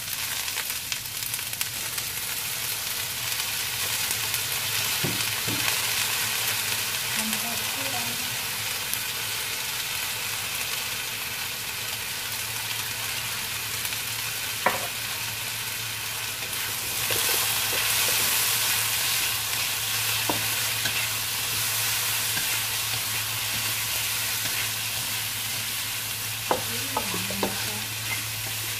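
Tempe and long beans frying in a wok with a steady sizzle, just after sweet soy sauce is poured in. The sizzle grows louder a little past halfway. There is one sharp knock about halfway through, and a few short scrapes of the spatula against the wok near the end.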